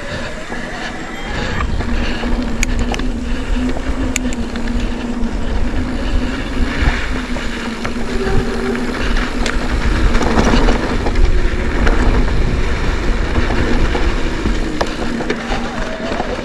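Mountain bike ride on a dirt trail: wind buffeting the microphone and tyres rolling over the ground make a heavy rumble, with a steady buzzing tone from the coasting bike and scattered sharp clicks and rattles from the bike over rough ground.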